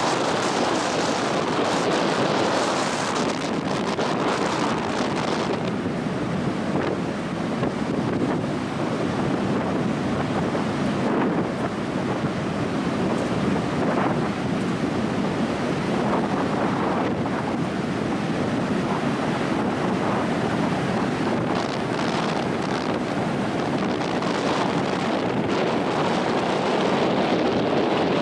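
Strong wind buffeting the microphone, loud and steady, with ocean surf on the beach mixed in.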